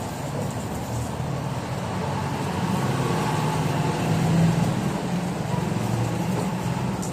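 A motor running steadily with a low hum, swelling louder about four seconds in, then easing back.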